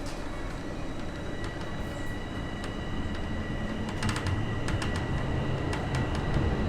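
Bombardier Toronto Rocket subway train pulling away from a station: a low rumble slowly building, with a steady electric-motor whine, and from about four seconds in a run of sharp clicks as the wheels pass over rail joints.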